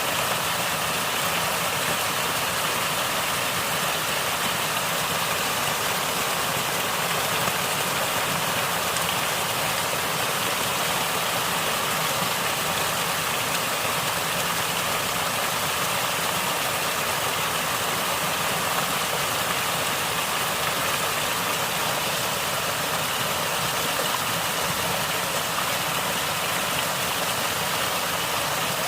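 Natural water flowing and gurgling in a steady, unbroken rush.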